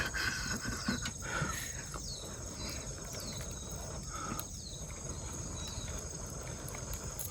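Insects shrilling steadily in the background, with a short falling chirp repeating about once a second.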